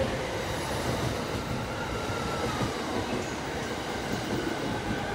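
E231 series 500 electric commuter train starting to pull out of a station platform, giving a steady rail rumble with a faint whine about two seconds in.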